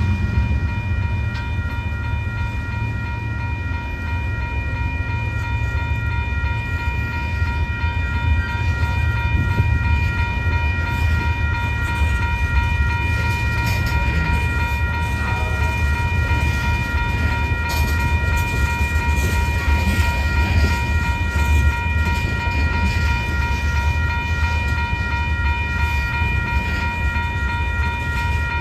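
A freight train rolling by with a steady low rumble, along with a continuous high whine of several steady tones.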